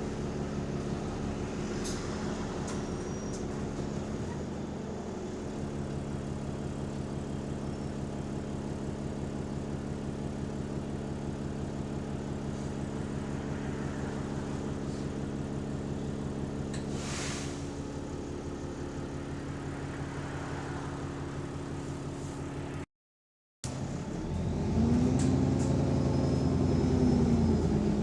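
Bus diesel engine heard from on board, idling steadily. Near the end it revs up as the bus pulls away, its pitch rising and then falling. The exhaust has a small leak.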